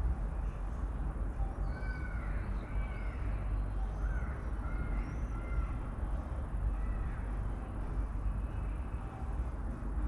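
Birds giving a series of short, arched calls, several in a row in the middle of the stretch, over a steady low background rumble.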